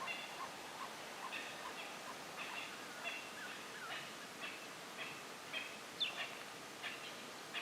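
Several birds calling over faint outdoor hiss: short, repeated notes throughout, with a regular pipping about two or three times a second during the first second and a half, and higher, harsher clustered calls, a few sliding downward.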